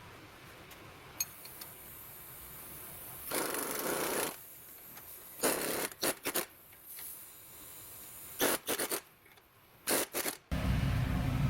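Tools scraping and rubbing on metal in short bursts, the longest about a second long, during work on a car's front suspension. A steady low hum starts near the end.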